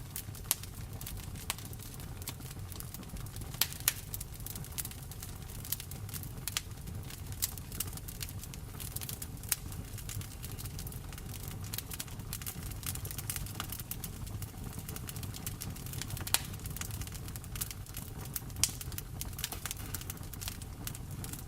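Wood fire crackling in a fireplace, with irregular sharp pops, several louder than the rest, over a steady low rush; rain falls steadily.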